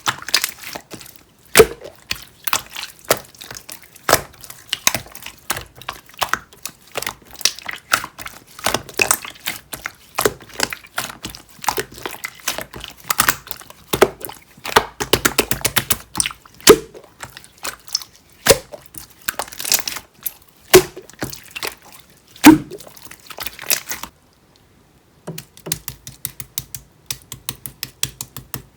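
Clear slime being squeezed and pressed by hand, making a dense run of sharp clicks and wet pops, with a louder air-bubble pop every couple of seconds. It breaks off for about a second near the end, then comes back as a fast, even run of small clicks.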